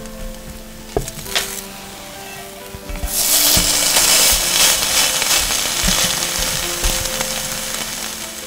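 Butter-soaked bread sizzling in a hot nonstick frying pan. The sizzle grows loud about three seconds in and slowly fades, with a few knocks of a wooden spatula against the pan.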